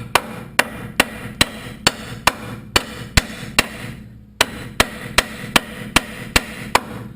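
Hammer striking steel on the car's front suspension to free the lower control arm. It is a steady run of sharp metal blows, about two and a half a second, with a short pause about four seconds in.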